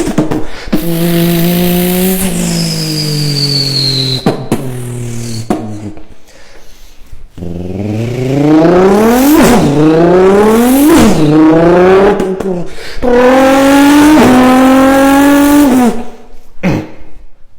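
A person imitating a racing car engine with their voice: the revs climb and drop back again and again like gear changes, with a high falling whine about three seconds in and short breaks between runs.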